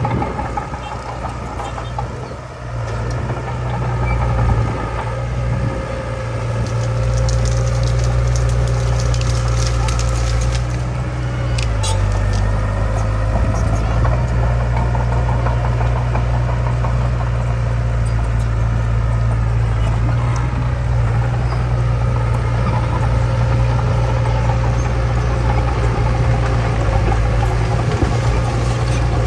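Heavy diesel earthmoving machine engine running steadily, with a brief dip in loudness about two seconds in and a few light knocks around the middle.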